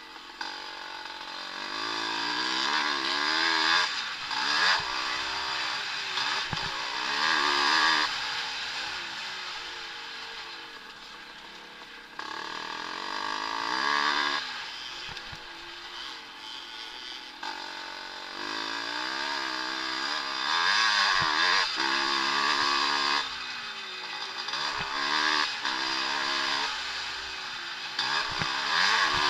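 Vintage motocross motorcycles racing, their engines revving up and down with throttle and gear changes. The engine sound swells and fades several times as bikes come close and move away.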